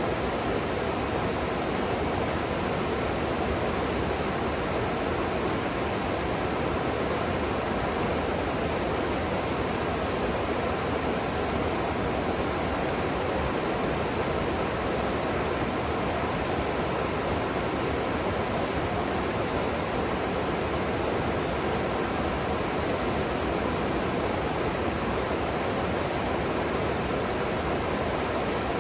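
River water rushing steadily, a constant even roar of flowing water.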